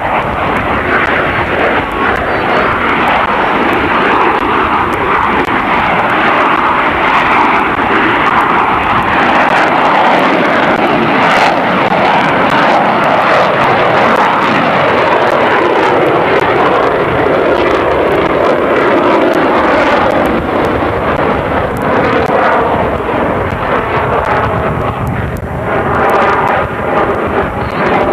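Airplane flying by at an airshow, its engines making a loud, continuous noise whose pitch slowly shifts as it passes.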